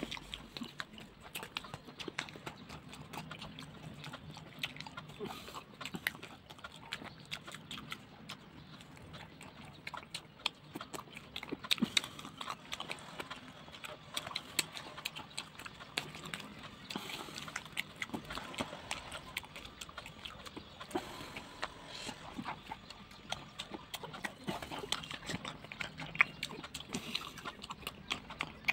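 Close-miked wet chewing and lip smacking of someone eating soft blended ful (mashed fava beans) with fried vegetables: a dense run of irregular mouth clicks with no pause.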